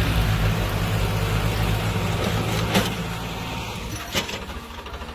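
Tractor diesel engines running steadily, easing off about three seconds in. There is a sharp knock near three seconds and another about a second later.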